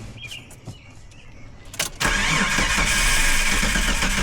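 Jeep engine cranking on its starter without catching, a fault the owner describes as 'It'll crank, but it won't start'. A sharp click about two seconds in is followed by a loud, steady run of rapid even pulses.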